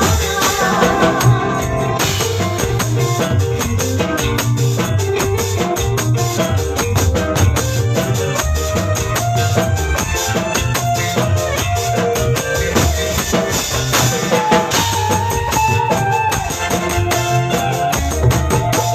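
Band music with a steady beat: drum kit, bass and melodic instruments, with a hand-played tambourine jingling along on the rhythm.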